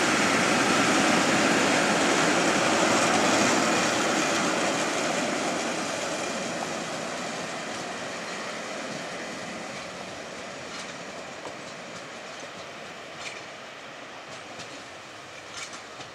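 Metre-gauge MOB passenger train rolling past close by, its wheels rumbling and clattering on the rails, then fading steadily as it draws away. A few sharp clicks from the wheels on the track sound near the end.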